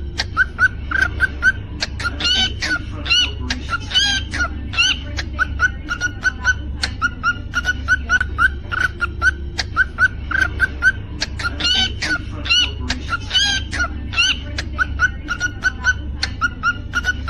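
Cockatiel chirping: a steady run of short repeated chirps, about three a second, broken now and then by louder rising calls.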